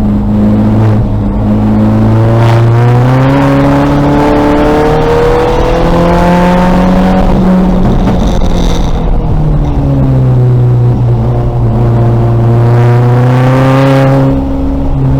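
2000 VW Golf race car's engine running under load, its pitch climbing through the revs and dropping back in steps as it shifts and lifts, twice over.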